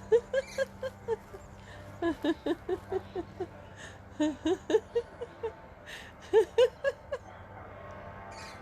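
A woman laughing deliberately, as a laughter exercise, in bouts of rapid "ha-ha-ha" pulses, about four or five a second. There are four runs with short pauses between them.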